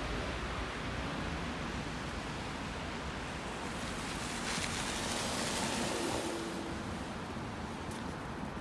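Steady rushing wind of a snowstorm on a city street, with a louder rushing swell about halfway through that fades again.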